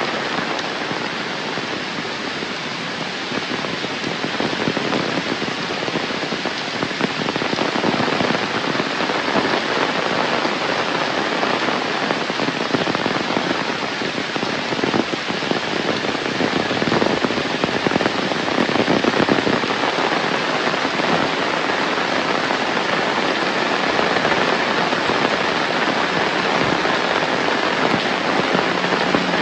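Heavy rain falling steadily: a dense hiss of countless drop impacts, swelling a little about two-thirds of the way through.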